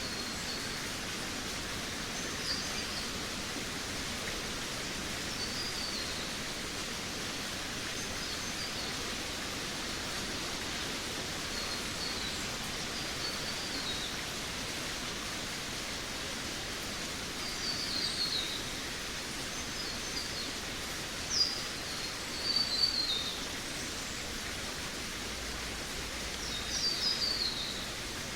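Forest ambience: small birds sing short, high, descending phrases every few seconds over a steady hiss of background noise. The bird phrases are loudest a little past two-thirds of the way through.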